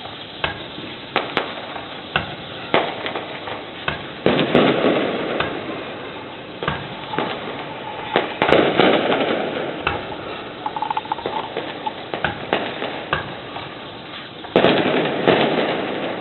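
Festival fireworks going off: a scatter of sharp cracks and pops, with three bigger bursts about four, eight and fourteen and a half seconds in, each trailing off in a second or two of dense crackling.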